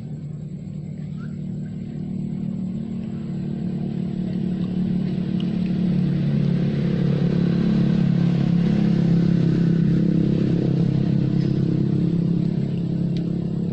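A motor vehicle engine running with a steady low hum that swells to its loudest past the middle and then eases off, as a vehicle passing by.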